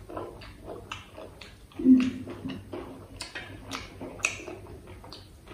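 Close-miked chewing of a mouthful of crunchy fried poori, with many quick wet mouth clicks and crackles, and a louder mouth sound about two seconds in.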